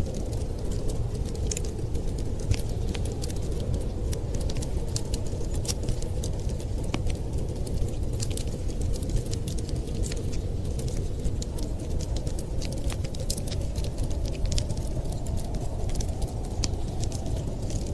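Wood fire crackling in a fireplace: many short, sharp pops and snaps at irregular moments over a steady low rumble.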